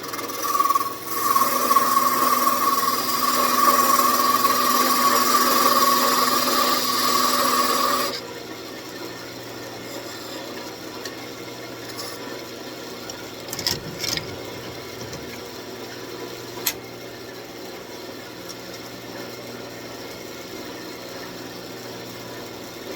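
A turning tool cutting into a spinning walnut blank on a wood lathe: a loud scraping cut with a steady tone, lasting about seven seconds. Then the cut stops and the lathe runs on with a quiet hum, broken by a few light taps.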